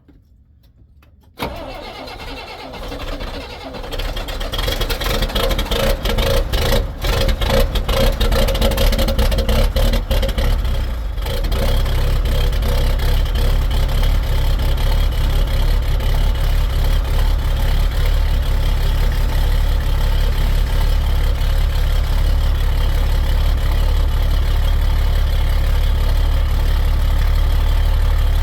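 Straight-piped Caterpillar 3116 inline-six diesel cold-starting at 25 degrees. It starts up suddenly about a second and a half in, runs unevenly for several seconds, then settles into a steady idle with a deep rumble.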